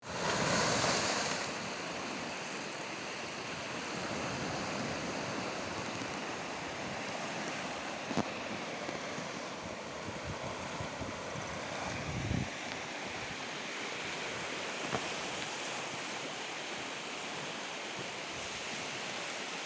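Steady rush of the flooded Siang River's fast-flowing water, with wind buffeting the microphone, strongest in the first second or so. A few brief knocks or bumps break in about eight and twelve seconds in.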